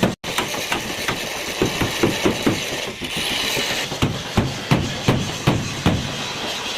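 Hammer blows on car body sheet metal during panel-beating, coming in quick runs of about three a second, with a brief hiss about three seconds in.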